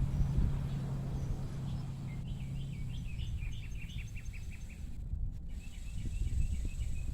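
A bird calling in two quick runs of high chirped notes, the first about two seconds in and the second near the end, over a steady low rumble with a low hum during the first few seconds.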